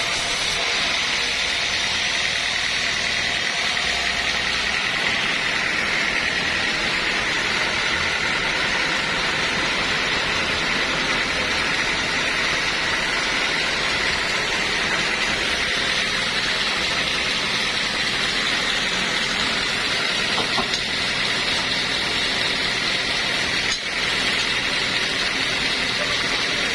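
Sawmill machinery running steadily, a continuous mechanical noise with a high, even whine that does not change.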